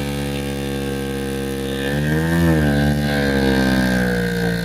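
Sport motorcycle engine held at raised revs, rising and falling once about two seconds in, while its rear wheel is stuck and spinning in wet sand.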